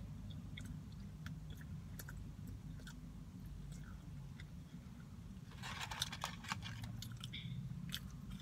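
Close-up chewing and mouth sounds of someone eating a fast-food burger, with a louder run of crunching about six seconds in. A steady low hum sits underneath.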